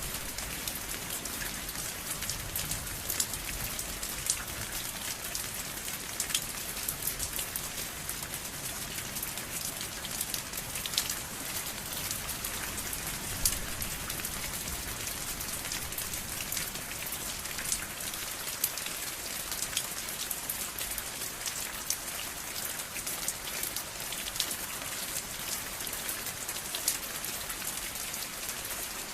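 Steady rain falling and pattering on a surface, a constant hiss with many separate drop ticks.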